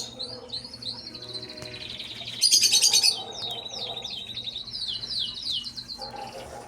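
Small cage birds chirping. A loud burst of rapid, shrill chirps comes about two and a half seconds in, followed by a run of short, falling whistled notes.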